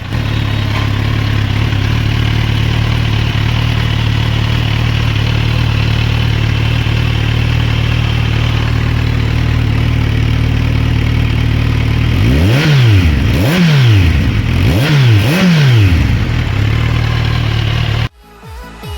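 Kawasaki Ninja 1100SX inline-four engine idling steadily through an aftermarket slip-on barrel exhaust, then revved in four quick throttle blips, each rising and falling in pitch, before settling back to idle. The sound cuts off suddenly near the end.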